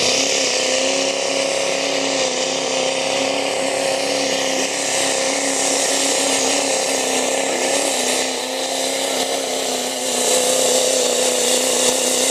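Diesel pickup truck engine held at steady high revs, working hard to drag a weighted truck-pull sled.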